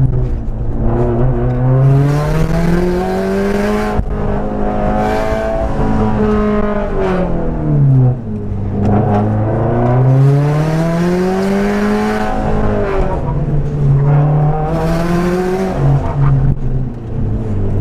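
A Subaru WRX STI's 2.5-litre turbocharged flat-four engine, heard from inside the cabin, driven hard around an autocross course. The revs climb and drop several times, and bursts of rushing noise come in between.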